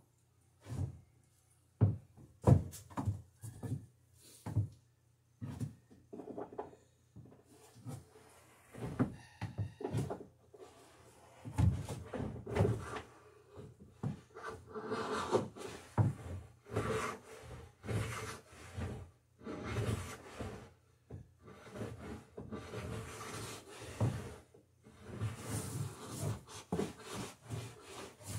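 A few sharp knocks, then repeated scraping strokes of a homemade bead-maker, a wooden block with a steel screw tip as its cutter, drawn along the edge of a wooden boat rail to cut a bead. Each stroke lasts about a second.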